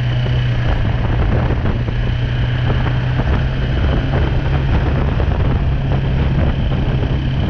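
BMW G310R motorcycle's single-cylinder engine running at a steady pitch, with no revving or gear change, mixed with rushing noise.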